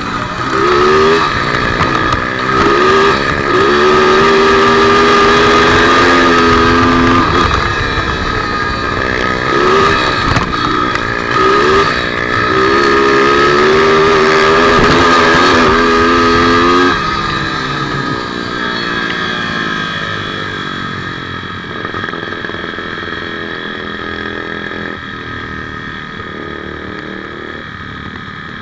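160cc speedway bike engine heard from on board, revving hard with its pitch climbing and holding high, easing briefly and climbing again, over rushing wind noise. About two-thirds of the way through the throttle is closed and the engine drops to a lower, quieter run as the bike slows.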